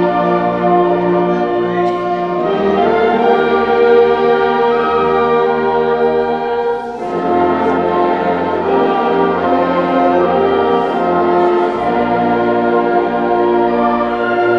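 High school band playing sustained brass chords that shift every second or two, with a brief break between phrases about seven seconds in.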